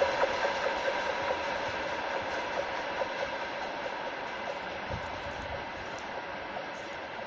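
A passing freight train receding: the rumble and clatter of its wagons' wheels on the rails fading steadily, with a faint ringing tone that dies away early.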